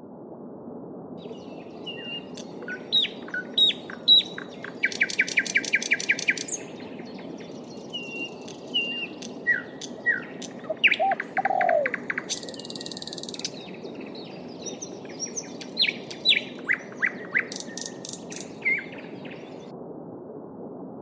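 Small songbirds chirping and singing over a steady babbling stream; about five seconds in, one gives a fast trill of evenly spaced notes.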